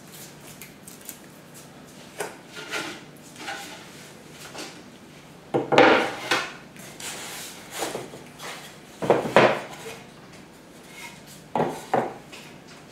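Beehive kit parts being handled and set down: irregular knocks, scrapes and rubbing of wooden and metal pieces. The loudest handling comes twice in the middle, followed by two sharp knocks near the end.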